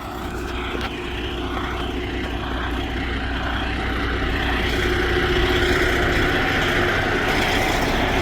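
A motor vehicle running, a steady rumble with engine hum and road or wind noise that grows gradually louder.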